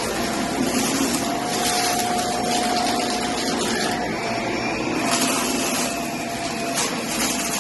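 Vacuum cleaner running steadily on carpet, an even motor rush with a faint steady whine.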